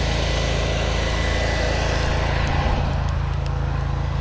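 Pressure washer's gas engine running steadily at a constant speed.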